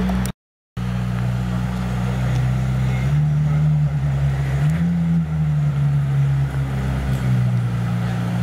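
McLaren Senna's twin-turbo V8 idling while the car creeps slowly along and pulls up, a steady low engine note that steps up slightly a few seconds in. The sound drops out completely for about half a second near the start.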